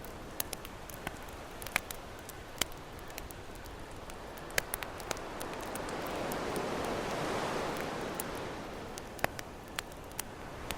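Campfire crackling with sharp, irregular pops over the steady wash of ocean waves, which swells and then eases off in the second half.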